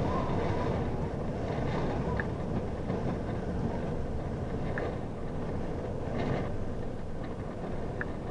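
Steady low rumbling noise with a few faint short ticks.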